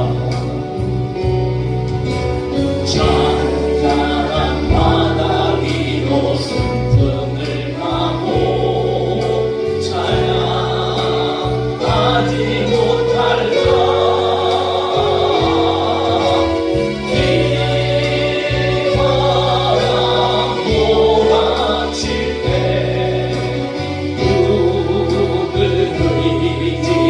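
Choir singing a gospel worship song over instrumental accompaniment with held bass notes.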